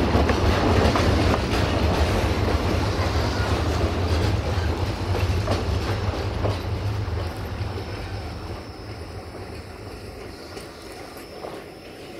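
Narrow-gauge train running past and moving away: a steady low drone with wheel clicks over the rail joints, fading steadily.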